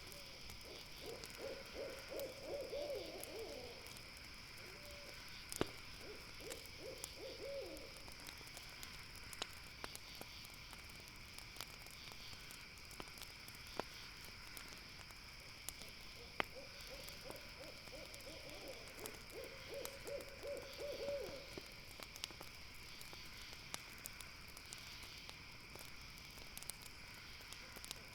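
An owl calling in low, quavering trills, in several bouts of a few seconds each, the longest near the middle. Under it, a campfire crackles with occasional sharp pops, over a steady high chorus of night insects.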